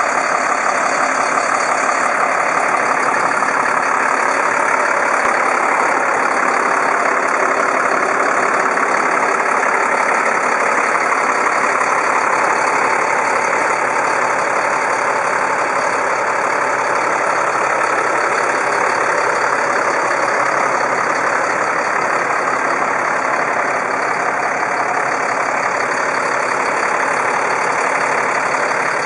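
Medium-duty GMC bucket truck's engine running at a steady idle.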